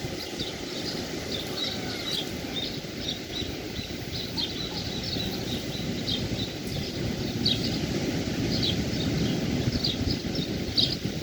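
Birds chirping in many short, high calls, scattered irregularly, over a steady low wash of sea surf.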